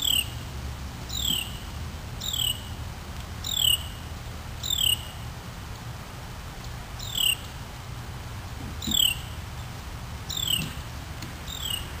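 A bird repeating a clear whistled note that slides downward, nine times at about one a second, with a short break after the fifth. A steady low rumble sits underneath.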